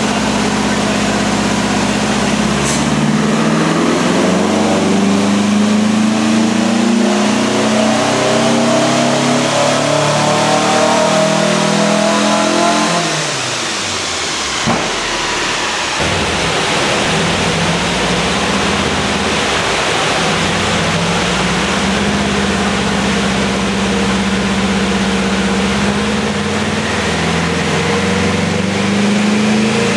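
Air-cooled VW Beetle flat-four engine under load on a chassis dynamometer, revs climbing steadily for about thirteen seconds in a power run. The revs then drop away, and after a short lull it runs on at a steady, lower speed.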